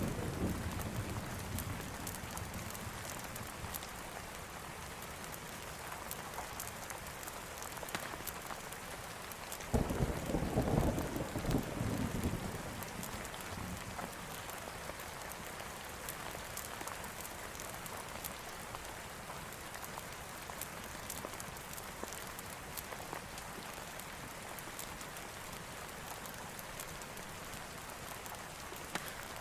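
Steady rain falling, with a low roll of thunder about ten seconds in that lasts two to three seconds; the tail of an earlier thunder roll fades out in the first second. Scattered sharp ticks sit over the rain throughout.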